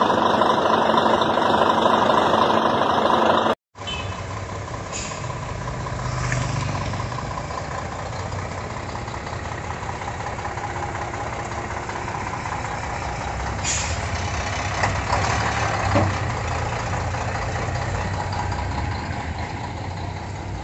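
Heavy truck's diesel engine idling steadily, with a few short hisses or clicks over it. About three and a half seconds in, the sound cuts abruptly from a louder, noisier stretch.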